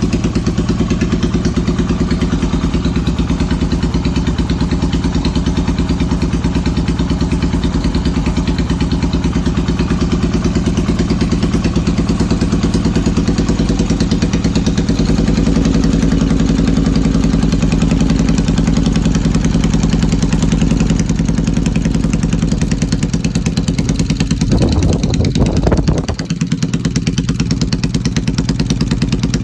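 Yamaha XS650 parallel-twin engine with an old Hitachi TCI ignition, running steadily at idle with misfires. There is a short louder burst about 25 seconds in, after which it settles back to idle.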